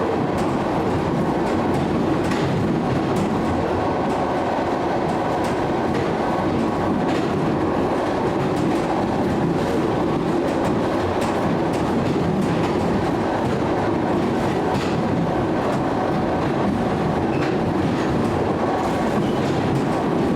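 Train running steadily on the rails, with the wheels clicking irregularly over the track.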